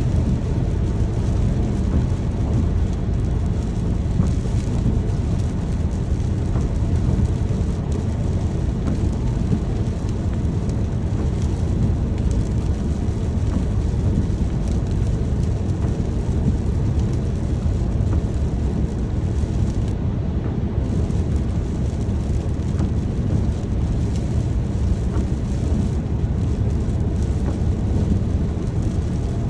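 Steady rain: an even, unbroken rush of noise with a strong low rumble beneath it and no distinct claps or drops standing out.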